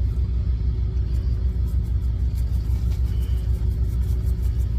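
Semi truck's diesel engine idling: a steady low rumble with an even pulse.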